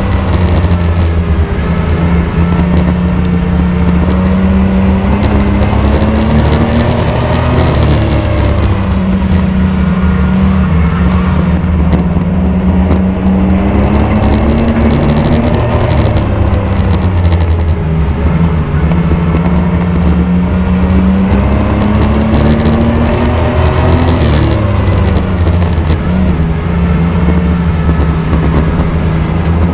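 Race truck engine running hard under load, its pitch climbing and dropping in a repeating cycle about every four to eight seconds as it accelerates and lifts around the track.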